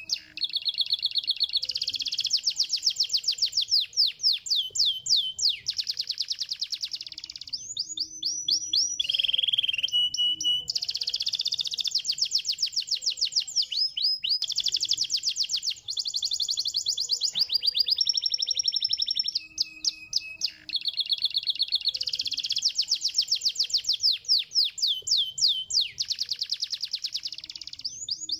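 Canary singing a long, continuous song: one trill of rapidly repeated high notes after another, each phrase switching to a new note and speed, with only short pauses between phrases.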